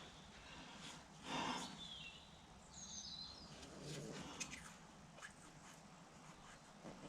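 Faint, short falling chirps of a small bird, with a few light clicks and a brief rustle or scrape about a second and a half in.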